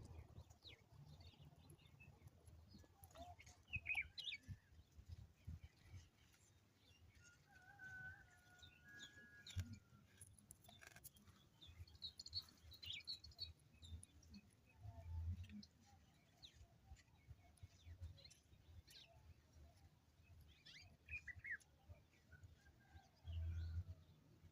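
Faint birdsong: scattered chirps and short whistled notes from garden birds, with a few low rumbling thuds, the biggest about halfway through and near the end.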